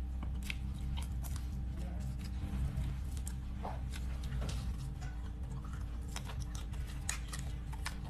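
Close chewing and crunching of crispy deep-fried skewer food: many short, sharp crackles as he bites and chews, over a steady low hum.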